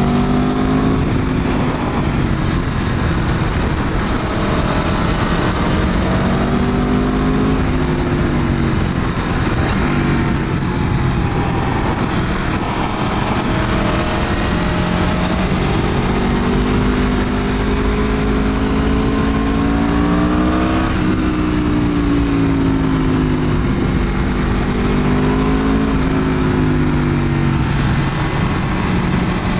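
Aprilia Tuono V4's V4 engine, stock exhaust, heard from the rider's position while riding. The engine note climbs and drops again several times as the bike accelerates and is eased off, over a steady rush of wind.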